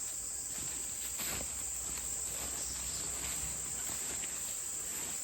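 Steady, high-pitched insect chorus droning without a break, with a faint knock about a second in.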